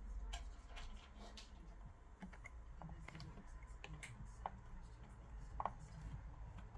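Faint, irregular light clicks and taps of small speaker parts being handled and fitted.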